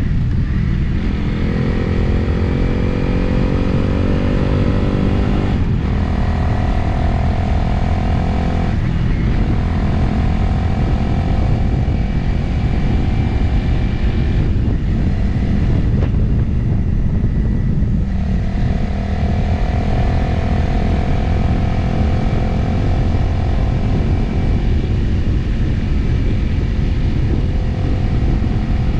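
Motorcycle engine accelerating with rising pitch, shifting up about six and nine seconds in, then cruising at a steady note. Heavy wind rumble on the microphone underneath throughout.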